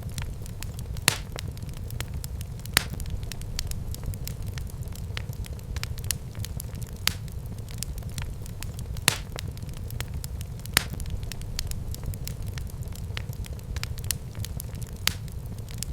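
Wood fire burning in a fireplace: a steady low rumble of flames with frequent sharp crackles and pops, a few louder snaps scattered through.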